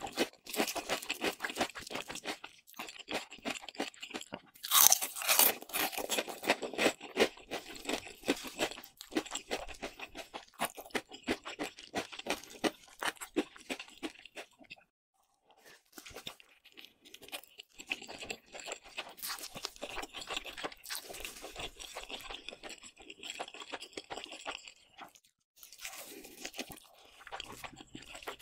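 Close-miked crunching and chewing of breaded, deep-fried shrimp, with loud crisp bites about five seconds in. After a short pause about halfway, softer chewing follows.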